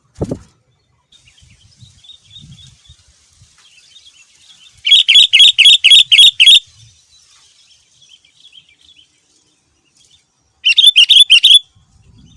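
Sooty-headed bulbul (kutilang) singing: two loud bursts of quick repeated chirping notes, one about five seconds in and a shorter one near the end, with faint calls between. A brief low thump at the very start.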